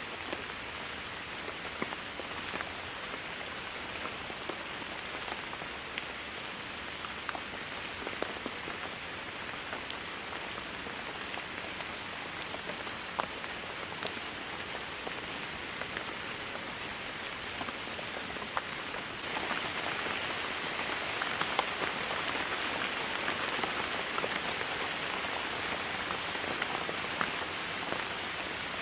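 Steady rainfall with scattered individual drops ticking sharply. The rain steps up and gets louder and heavier about two-thirds of the way through.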